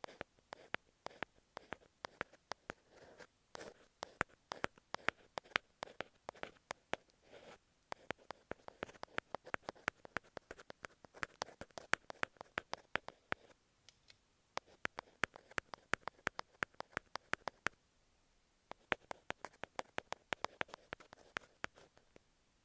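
Ear pick scratching and tapping on masking tape wrapped over an earphone microphone, heard very close: rapid, irregular crackly scratches with a couple of brief pauses.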